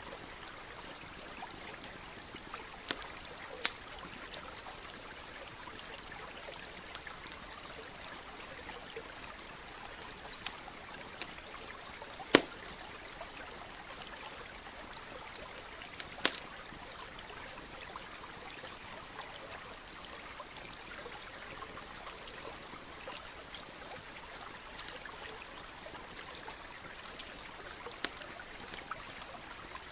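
Campfire crackling, with irregular sharp pops scattered through, the loudest about 12 seconds in, over the steady trickle of a nearby stream.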